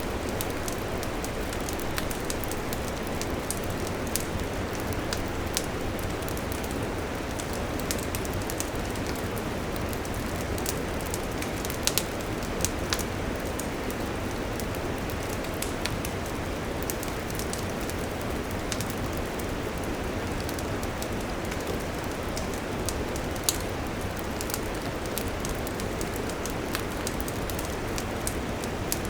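Wood campfire burning: a steady rushing hiss of the flames with frequent sharp crackles and pops, a few of them louder than the rest.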